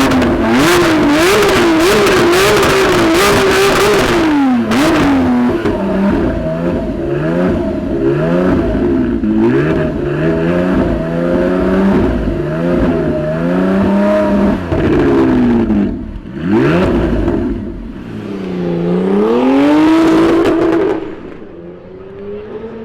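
Lamborghini Aventador SVJ's naturally aspirated V12 revving loudly, its pitch rising and falling many times in quick succession. It then falls away about two seconds before the end.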